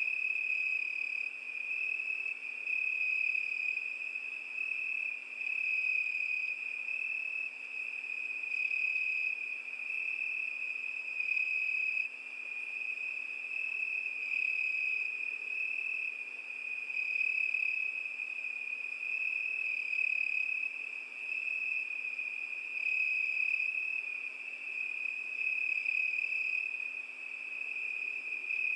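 Cricket trilling steadily at one high pitch, its loudness swelling and fading every couple of seconds.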